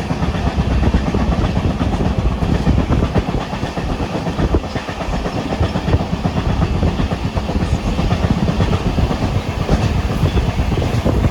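Passenger train running at speed: a loud, steady rumble of wheels on the track with a constant irregular rattle and clatter.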